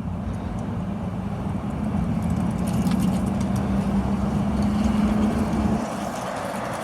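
Motor vehicle engine running, a steady low hum that grows a little louder and then drops away abruptly about six seconds in.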